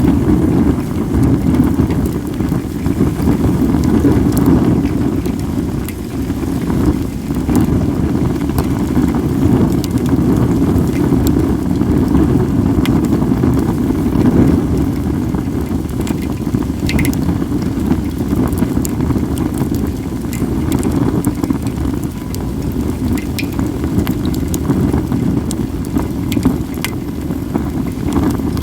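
Wood fire of acacia and mixed firewood crackling, with scattered sharp pops, over a steady low rumble of wind on the microphone.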